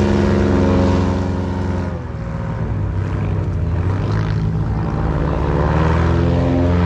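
Airboat's engine and propeller running, dropping off about two seconds in and then revving back up near the end.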